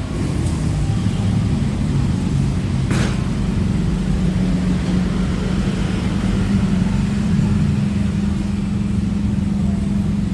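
A car running, a steady engine and road drone with a constant low hum, as heard from inside the car; one short click about three seconds in.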